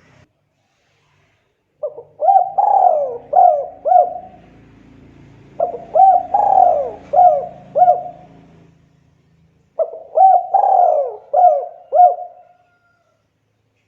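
Spotted dove (tekukur) cooing: three loud song phrases of about five coos each, roughly four seconds apart.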